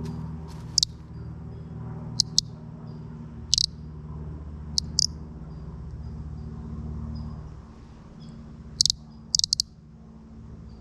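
Audubon bird caller squeaked in short, high, sharp chirps, singly and in quick clusters of two to four, over a steady low hum.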